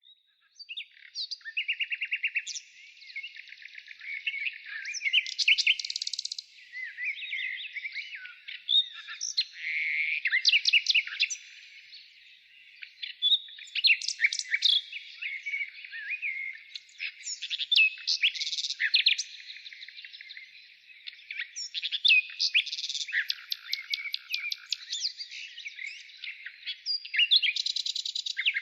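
Songbirds singing: high-pitched chirps, rapid trills and sliding whistles in busy bursts every few seconds.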